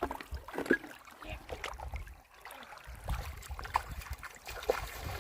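River water trickling and splashing lightly, with scattered small clicks and knocks.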